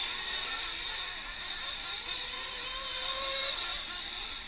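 Several 1/8-scale nitro RC truck engines running at high revs on the track, a steady high-pitched whine; about three seconds in, one revs up sharply, its pitch rising as it accelerates.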